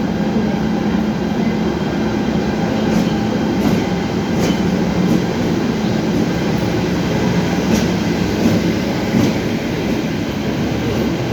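Express passenger train rolling into a station: a steady rumble of wheels and coaches with a low hum, and a few sharp clicks over the rail joints.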